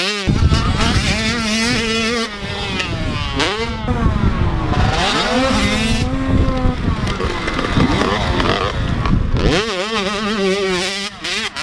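85cc two-stroke motocross bike engines racing, the pitch repeatedly rising and falling with throttle and gear changes. A heavy low rumble runs under them until near the end, when the engine sound turns steadier.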